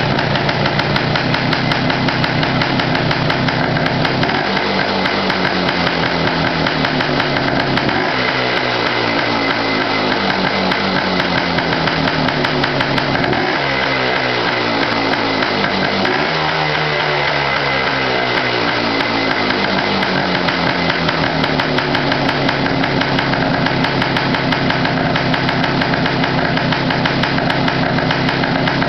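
1974 Yamaha TY250 trials bike's single-cylinder two-stroke engine running just after a cold start. It is revved up sharply about four times, the last time easing slowly back down.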